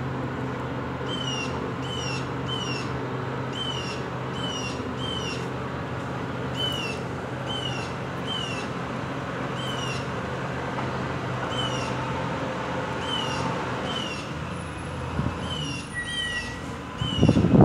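A songbird calling the same short down-slurred note over and over, about once a second, over a steady low hum. Just before the end come a few loud low rumbles.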